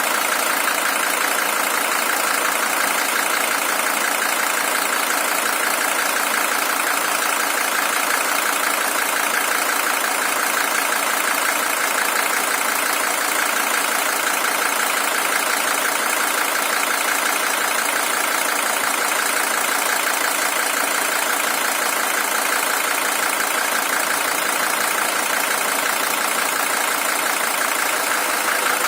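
Mercedes-Benz W123 300TD's OM617 five-cylinder diesel engine idling steadily. The engine is the original one, at 620,000 km.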